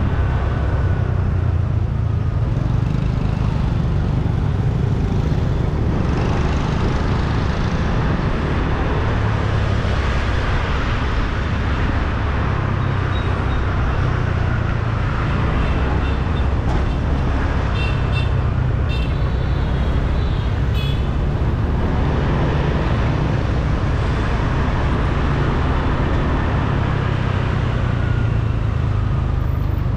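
Motorbike riding in road traffic: a steady low rumble of engine and road noise, with several short horn beeps from other traffic just past the middle.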